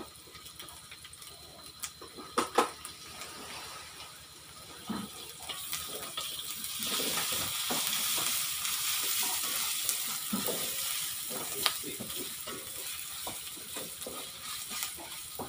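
Spice paste frying in a metal wok, sizzling as a wooden spatula stirs and scrapes it, with a few sharp knocks of the spatula on the wok about two and a half seconds in. The sizzling swells from about six seconds in and eases toward the end.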